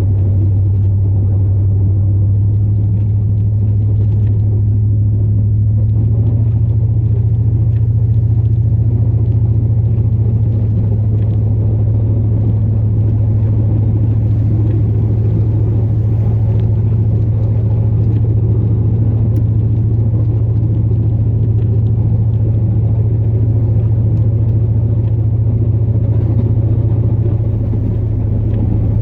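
Steady low drone of a 2002 Chevrolet Silverado's 8.1-litre big-block V8 gas engine running under way, heard from inside the cab.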